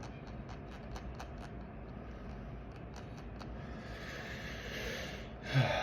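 Faint small-parts handling while thread locker is worked onto the threads of a grip trainer's handle: a few light clicks, then a soft rubbing hiss that swells near the end.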